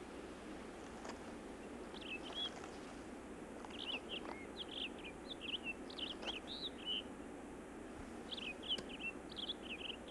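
A bird chirping in runs of short, quick high notes, coming in three bursts, over a steady background hiss.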